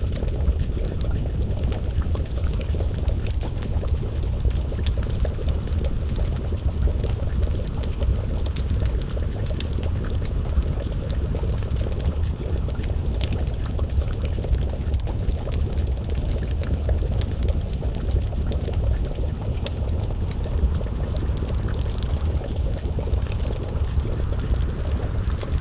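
Wood fire crackling with frequent small sharp pops over a steady low rumble, with a pot of stew bubbling as it simmers over the flames.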